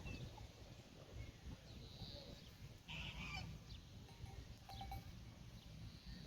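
Faint farmyard ambience: a short harsh animal call about three seconds in, over a steady low rumble, with a few thin bird chirps.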